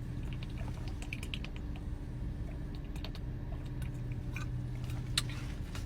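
Chewing a mouthful of chicken sandwich close to the microphone: a scatter of small, irregular clicks over a low steady hum.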